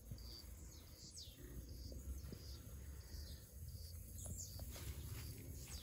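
Faint rural ambience: a steady high chirring of crickets or similar insects, with short repeated bird chirps and a few falling whistles over a low rumble.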